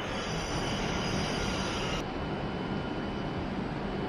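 E7/W7-series Shinkansen train pulling slowly into the platform as it brakes to a stop, a steady rumble with a high steady whine. The whine cuts off abruptly about halfway through, leaving a fainter single high tone over the rumble.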